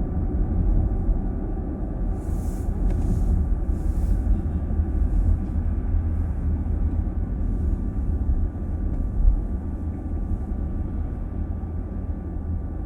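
Car cabin road noise while driving: a steady low rumble of tyres and engine heard from inside the car, with a few faint hisses a couple of seconds in.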